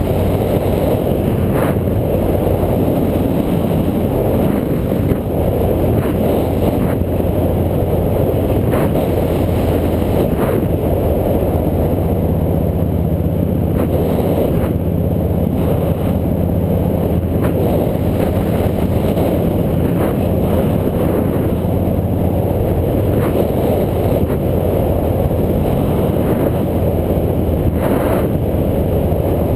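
Small motorbike engine running at a steady cruise, with wind rushing over the microphone.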